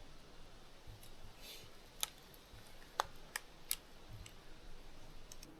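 Trail camera being handled: four quiet, sharp plastic clicks in under two seconds, then a couple of fainter ones.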